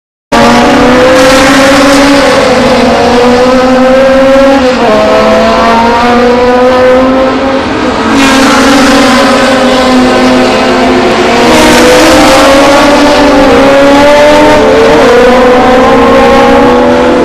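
Classic racing car's engine at full throttle, accelerating hard through the gears: the engine note climbs in pitch, then drops back at each upshift, several times over. The sound cuts in abruptly at the start.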